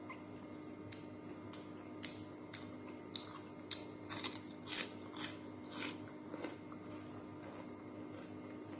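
Close-up mouth sounds of eating crispy fried galunggong (round scad): a few sharp clicks, then a quick run of crunchy bites and chewing about four to six seconds in.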